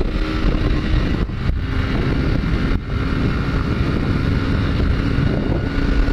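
Honda CG 150 Fan single-cylinder four-stroke motorcycle engine running on the move, with wind rushing over the microphone. The engine note is steady apart from two brief drops, one about a second in and one nearer three seconds.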